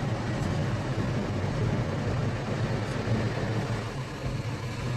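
Automatic car wash running its complete-wash cycle over the car, heard from inside the car: a steady rushing of water spray and brushes over a low hum.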